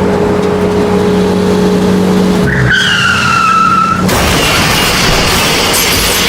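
Vehicle engine sound effect: a steady engine drone, with a tyre squeal falling in pitch about two and a half seconds in.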